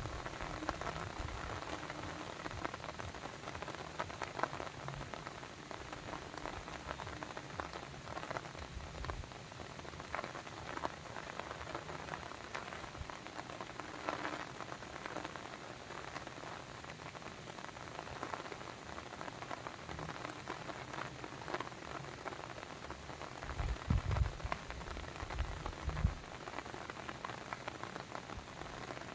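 Steady pattering, trickling water, with many small drips and splashes, and a few low thumps near the end.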